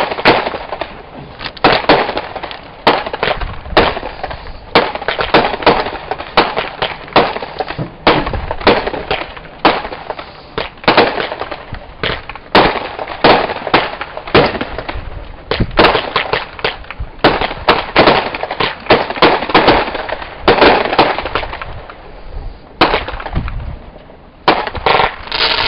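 Consumer fireworks going off in a dense run of sharp cracks and pops, several a second, easing briefly near the end before picking up again.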